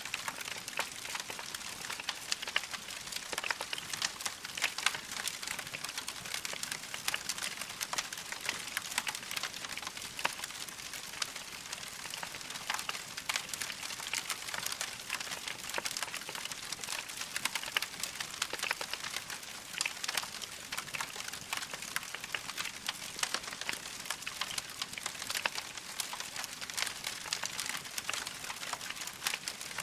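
Wood fire crackling in a fireplace: a steady hiss of burning with many small, irregular pops and snaps.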